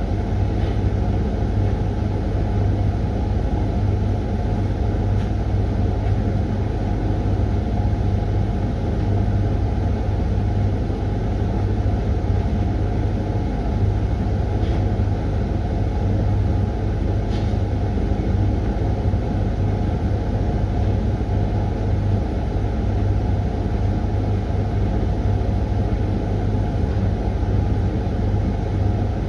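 Hoover laundry machine running its Refresh programme: the drum turning with a steady motor hum and rumble, and an occasional faint light click from the load.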